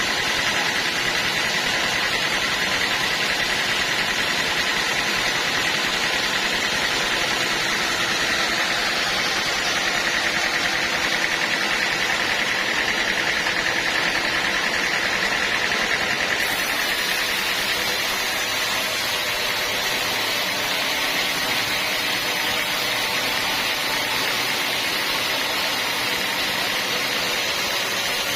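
Sawmill running as it cuts a teak log: a steady machine noise with a high whine that weakens about seventeen seconds in.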